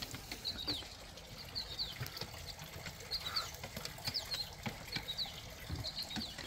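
Small birds chirping over and over in short, high, slightly falling chirps, with faint scattered taps and rustles underneath.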